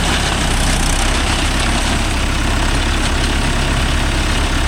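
Mahindra Yuvo Tech Plus 585 tractor's diesel engine running steadily, driving a Bharat baler.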